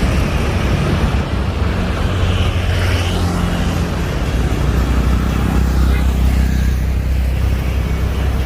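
Airbus A330-900 airliner's Rolls-Royce Trent 7000 jet engines on landing approach: a loud, steady, deep rumble, with a brief higher hiss about three seconds in.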